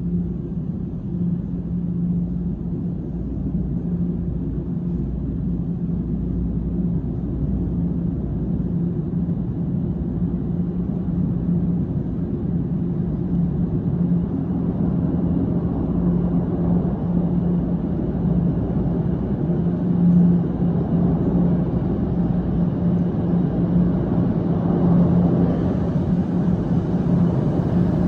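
Toronto subway train rumbling in the station tunnel, a steady low hum under a noisy rumble that slowly grows louder.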